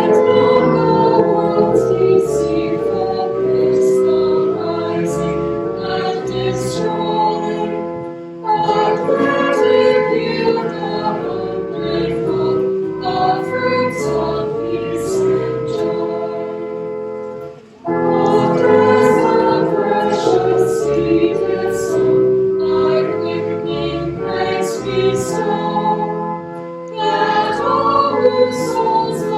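A hymn sung by a choir or congregation with keyboard accompaniment, in long held phrases with short breaks about 8 and 18 seconds in.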